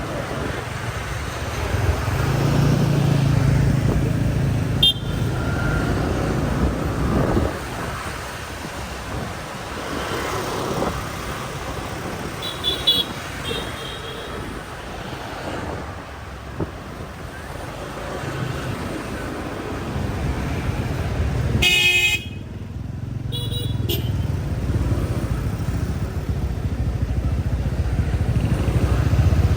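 Busy street traffic heard while riding a motorbike: a steady engine and road rumble, with several short horn toots from the surrounding scooters. The loudest is a horn blast about two-thirds of the way through, with a shorter toot just after it.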